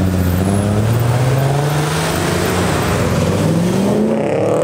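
Car engines accelerating as cars pull away, engine pitch climbing steadily as they rev up.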